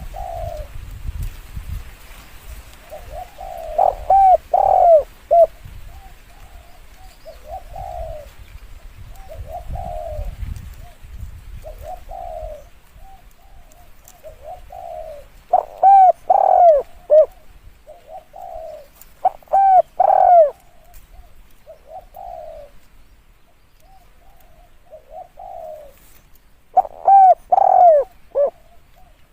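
Spotted doves cooing: loud phrases of several rounded coos come four times, with softer coos repeating between them.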